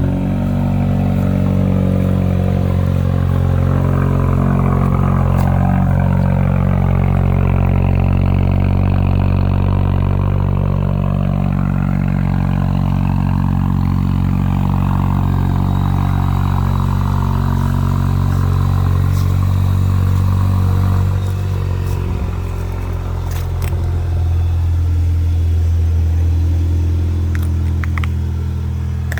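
2021 Chevrolet Silverado's 2.7-litre turbocharged four-cylinder engine at fast idle just after a cold start, having sat for two weeks. About 21 seconds in, the idle drops and the engine settles a little quieter.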